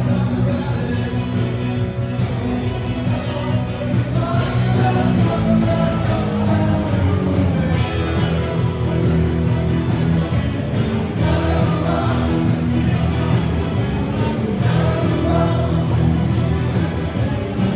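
Live band playing a song with a singer, drums keeping a steady beat.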